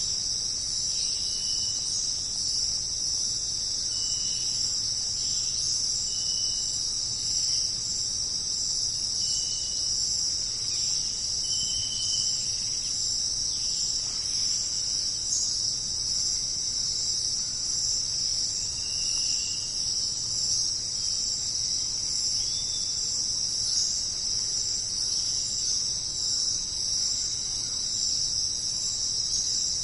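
Dense, steady, high-pitched chorus of jungle insects such as crickets, with short chirping notes repeating every second or two beneath it.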